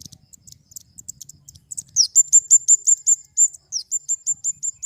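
Flowerpecker (kemade) calling: scattered sharp, very high ticks, then from about two seconds in a fast, even run of thin, high chip notes, about six a second, which is the loudest part.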